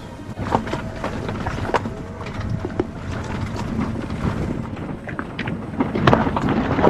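A vehicle driving along a rough mountain road: a steady low running rumble with frequent knocks and rattles from the bumps, and wind on the microphone.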